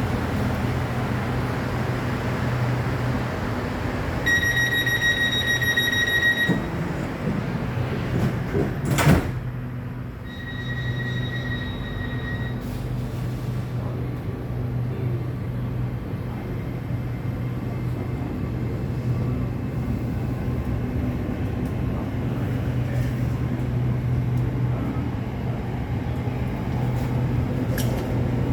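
SRT Red Line electric commuter train at a station stop. A door warning tone sounds for about two seconds, the carriage's sliding doors shut with one loud knock about nine seconds in, and a second, shorter tone follows. Over all of it runs the steady low hum of the electric train.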